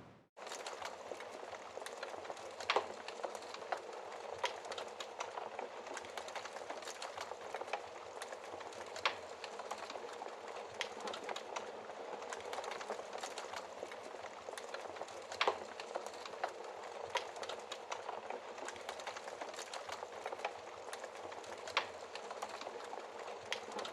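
Wood fire crackling steadily, with frequent small ticks and an occasional louder sharp pop. It starts abruptly just after a brief silent gap.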